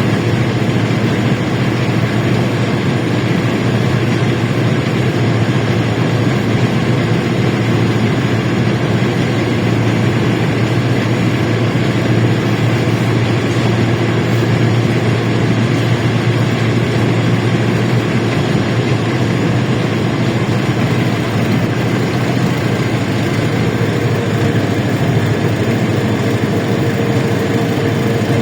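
LiAZ-677M bus's V8 petrol engine running steadily with a constant low hum and no change in revs. A faint, steady higher-pitched hum joins near the end.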